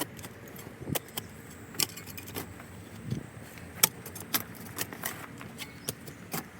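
Digging in ground full of broken glass and rubble: irregular sharp clinks and knocks, about two or three a second, as a garden tool strikes glass and stones in the soil.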